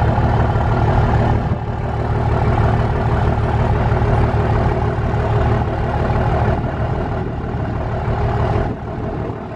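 A truck engine idling steadily, a continuous low rumble with a steady hum.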